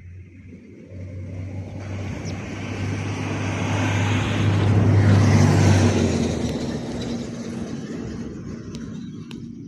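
A motor vehicle driving past, its engine hum and road noise building up to a peak about five seconds in, then fading away.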